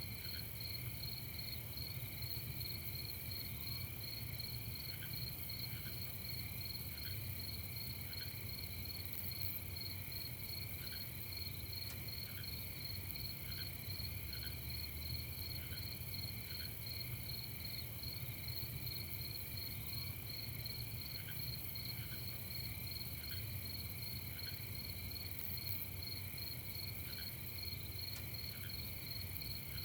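Night insect chorus of crickets: steady, finely pulsing trills at several pitches, with faint short chirps every second or two. A low, even rumble sits underneath.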